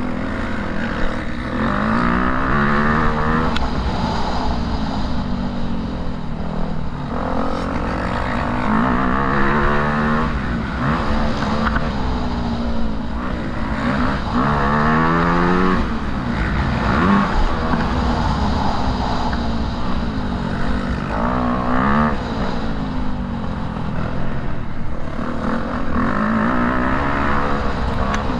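Motocross bike engine running hard, its pitch climbing under throttle and dropping off again several times, over a steady low rumble.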